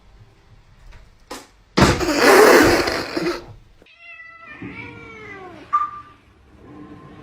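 Domestic cat meowing: one drawn-out meow about four seconds in whose pitch rises and then falls. It comes after a loud, harsh noise lasting about a second and a half, the loudest sound here.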